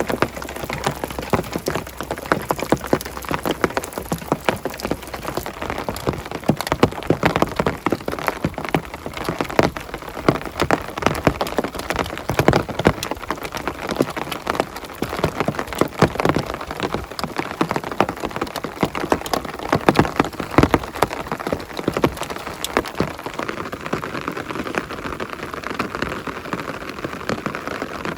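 Heavy rain, a dense, irregular stream of drops hitting a hard surface close by.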